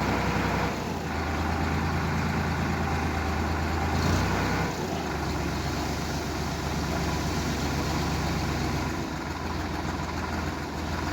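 Sonalika DI 750 tractor's diesel engine running steadily, its note shifting about a second in and again around four seconds in.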